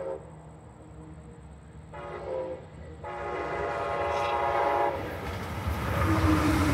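Brightline passenger train sounding its horn for a grade crossing: the end of one blast, a short blast, then a long blast of about two seconds. After that comes the rush of the train passing at high speed, growing loud in the last couple of seconds.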